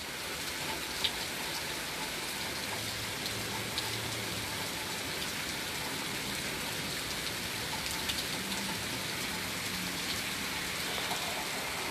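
Steady rain falling: an even hiss of rain on surfaces, with a few sharper drop ticks now and then.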